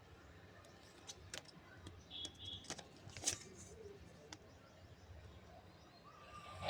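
Quiet outdoor ambience with scattered sharp clicks and taps, the loudest about three seconds in, and a short high bird chirp a little after two seconds.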